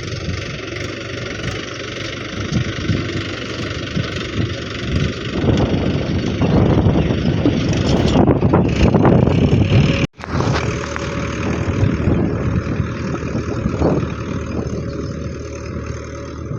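Tractor engine running steadily, growing louder for a few seconds in the middle, with a sudden split-second break about ten seconds in.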